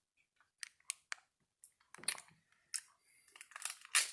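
Eating noises: scattered faint clicks and mouth smacks while chewing food, with a few small clusters of taps.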